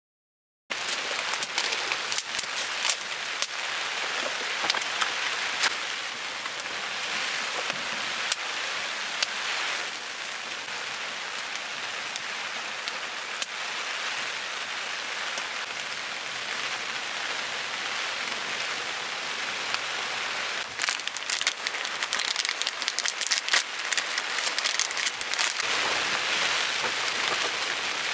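Heavy rain falling, a dense steady hiss scattered with the sharp ticks of individual drops, starting abruptly about a second in.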